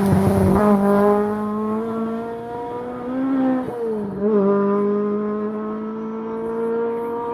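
Rally Ford Escort Mk1 engine at high revs on a rally stage, opening with a short burst of rough noise. It then holds a steady high-pitched note, with a brief rise and dip about three and a half seconds in before settling again.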